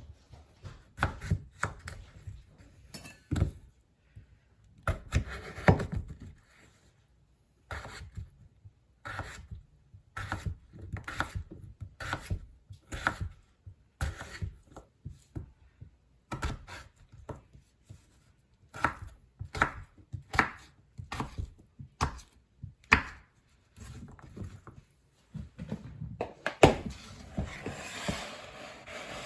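A knife chopping on a cutting board: a run of separate knocks, about one or two a second, with a pause early on. Near the end comes a louder knock and a rougher scraping sound.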